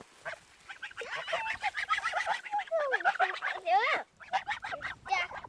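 Young farm geese calling: a rapid run of short, high peeping calls that slide up and down in pitch.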